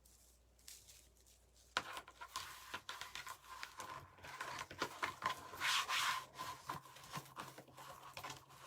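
Rustling, rubbing and crinkling of wreath-making materials being handled, starting about two seconds in and going on in irregular bursts, loudest a little past the middle.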